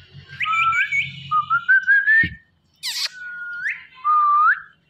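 Indian ringneck parrot giving a string of high, thin whistles, about four short phrases that mostly glide upward at the end.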